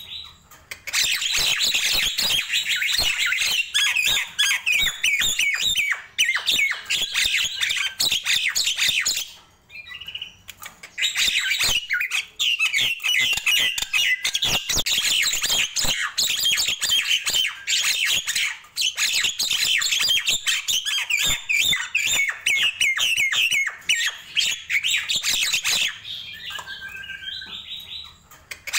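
Nias hill myna singing a long, rapid run of chattering, squawking and whistled notes, with a short break about nine seconds in.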